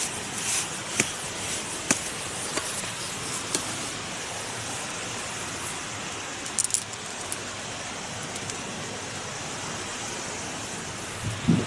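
Steady rush of wind noise, with scattered light clicks and taps in the first few seconds and a quick double click about two-thirds of the way through.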